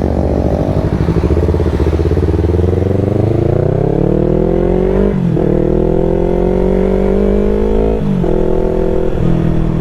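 Yamaha R3's parallel-twin engine under acceleration, its pitch climbing steadily. It shifts up twice, about five and eight seconds in, and each time the pitch drops and climbs again.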